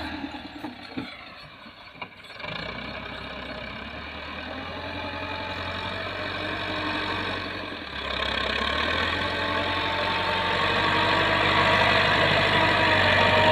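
Massey Ferguson tractor's diesel engine running steadily, getting louder about two seconds in and again about eight seconds in.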